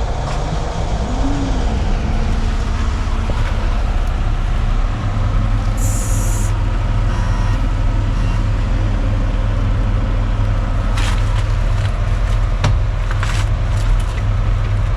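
Hitachi Zaxis 250 excavator's diesel engine running steadily, heard from inside the cab, growing louder about five seconds in. There is a short hiss about six seconds in and a few sharp clicks later.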